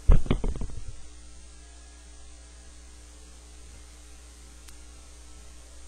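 A short cluster of loud knocks and thumps in the first second, then a steady low hum.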